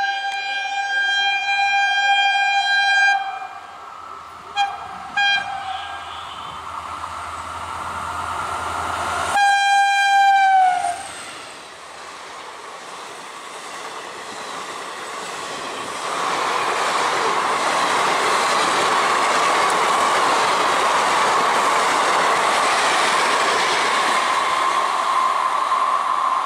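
WDP4D diesel locomotive sounding its horn: a long blast, two short toots, then another blast whose pitch drops as the locomotive passes, with a low engine hum beneath. Then its coaches run by, a steady rush of wheels on rail.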